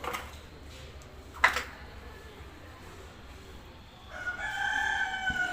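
A rooster crowing once near the end, a long call of about a second and a half. A sharp click comes about a second and a half in.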